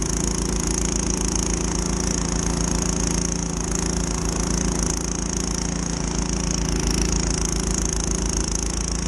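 Troy-Bilt Storm 2620 two-stage snowblower's small gas engine running steadily at full throttle while clearing snow.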